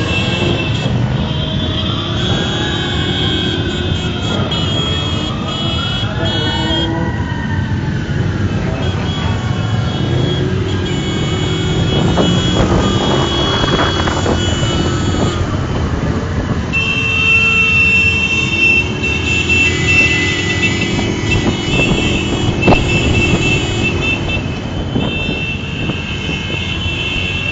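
Traffic noise from a motorcycle caravan on the move. Engine and road noise runs throughout, and over it horns sound in held high tones, with several rising-and-falling siren-like wails, most of them in the first half.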